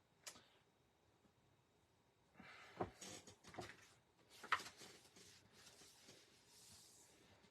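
Near silence with faint handling sounds of paper and craft supplies on a work desk: a few soft rustles and clicks, the sharpest click about four and a half seconds in.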